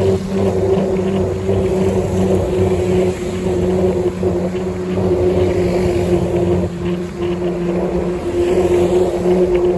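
Motorcycle engine running at a steady speed while riding, a constant engine note over a rushing noise.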